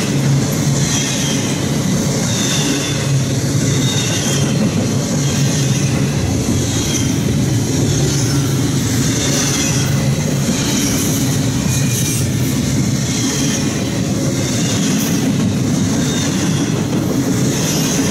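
Double-stack intermodal freight train's well cars rolling past, a steady rumble of steel wheels on the rails. Over it, a high wheel squeal swells and fades every second or two.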